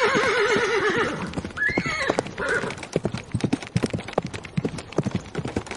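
Horses galloping, with many quick hoofbeats throughout. A horse whinnies with a quavering call in the first second, and a short high call rises and falls about two seconds in.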